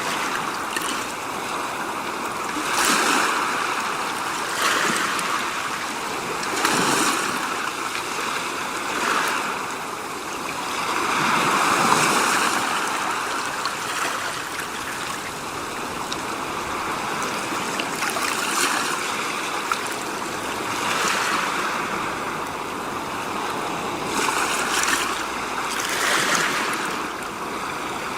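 Continuous rushing water noise that swells and fades every few seconds.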